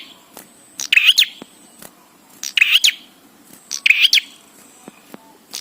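Prenjak songbird calling: short bursts of rapid, high chirping notes, three times about a second and a half apart.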